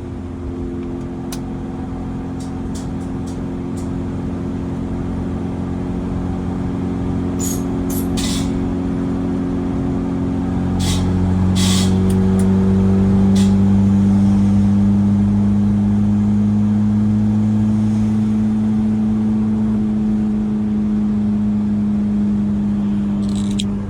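Twin-turbocharged Mitsubishi Mighty Max pickup's engine running on the road, a steady drone that rises a little in pitch and grows louder about halfway through as the truck picks up speed. A few short clicks come partway through.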